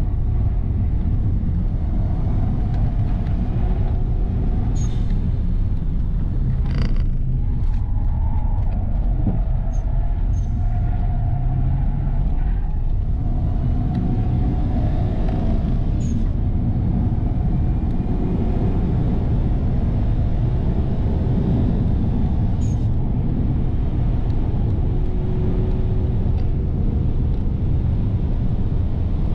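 2005 Subaru Legacy 2.0 turbo's flat-four engine heard from inside the cabin at full track pace, with road and wind noise. It comes out of a corner, then climbs in pitch again and again as the car accelerates hard through the gears down a straight.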